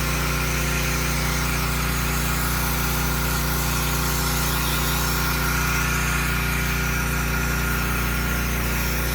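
Pump of a soft-wash spraying rig running steadily, with a constant whine and an even low drone while the house is sprayed.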